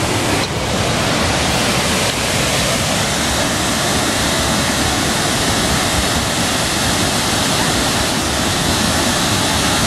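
Waterfall pouring loudly and steadily, a dense, even rush of falling water.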